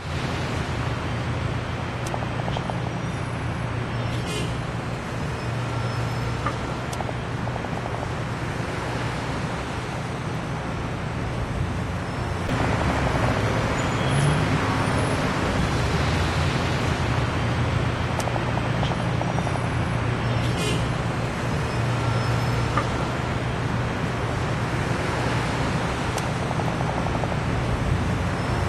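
Steady rumbling noise like road traffic, with a low hum beneath it, stepping up a little louder about twelve seconds in.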